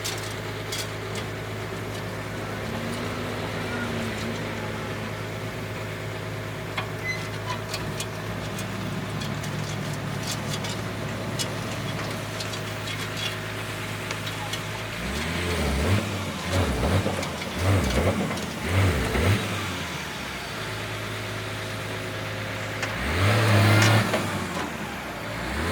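Backhoe loader's diesel engine running at a steady idle, with louder uneven surges of revving in the second half.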